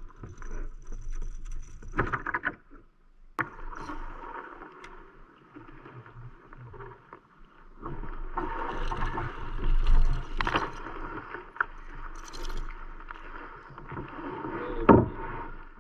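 A kayak moving on the water: paddling and water splashing against the hull, irregular and uneven, with a sharp knock about three seconds in and a louder burst near the end.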